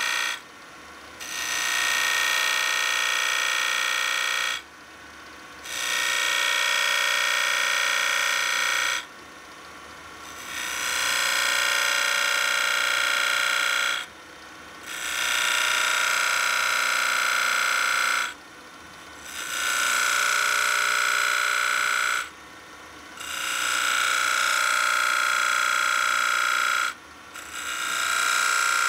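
Wood lathe turning a pine blank while a skew chisel cuts it in repeated passes: each cut is a high, shrill hiss of about three to four seconds, with a short lull between cuts where only the lathe's low running hum is left.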